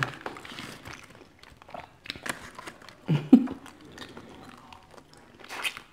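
Close-miked chewing and mouth sounds of someone eating, with scattered small crunches, clicks and lip smacks, and a brief voiced murmur about three seconds in.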